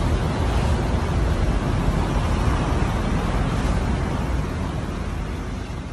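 Flash-flood water rushing, a steady loud noise with a heavy low rumble, fading near the end.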